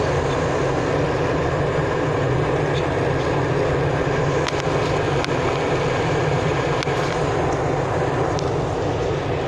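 Airliner cabin noise: a loud, steady rush of the jet engines and airflow heard from inside the passenger cabin, with a few faint small clicks and rattles.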